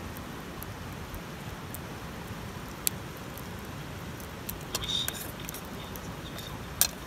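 Campfire burning with a steady hiss and a few sharp pops and crackles, the loudest one near the end.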